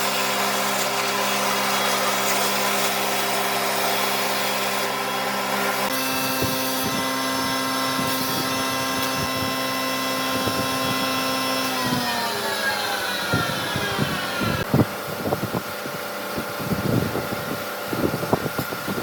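A woodworking power tool's motor running steadily, with light knocks of wood on the machine from about a third of the way in. Past the middle its pitch falls smoothly as it winds down after being switched off, and scattered knocks and taps of wood handling follow.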